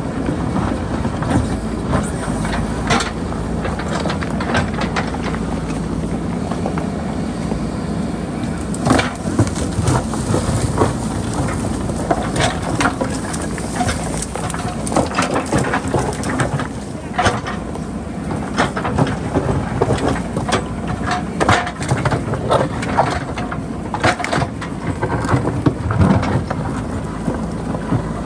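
JCB backhoe loader's diesel engine running steadily while the machine works rocky ground, with frequent irregular clanks, knocks and crunching of rocks and boulders.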